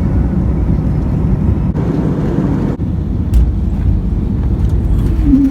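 Steady low rumble of vehicle cabin noise, with a brief hiss about two seconds in and a single click a little later.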